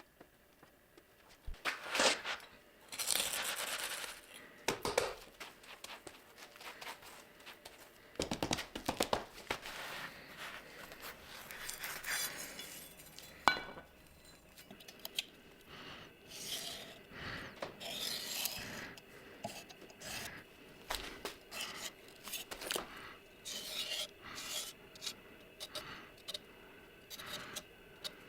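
Irregular scraping and rubbing strokes on metal, with occasional small clinks and one sharp click about halfway through.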